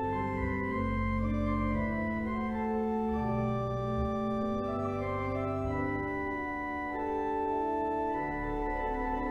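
Organ music: slow, sustained chords with held notes that change every second or so, played as a meditative interlude.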